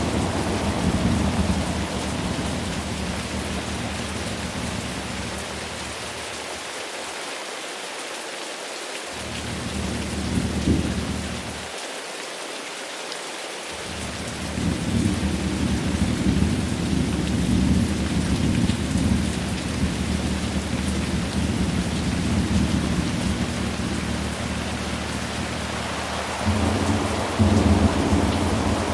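Steady rain with rolling thunder. Low rumbles fade out about seven seconds in. A short rumble comes near ten seconds, then a long rolling rumble builds from about fourteen seconds and swells again near the end.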